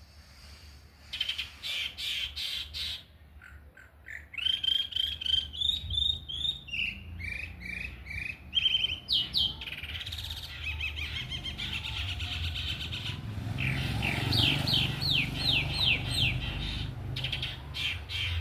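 Sabiá thrushes calling: series of short repeated chirps and downslurred whistled notes, some in quick runs, with a low rumble underneath that grows louder in the second half.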